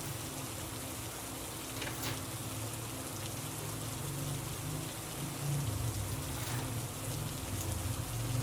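Steady rain falling, a continuous hiss with a few sharper drop hits, and a low rumble that swells in the last few seconds.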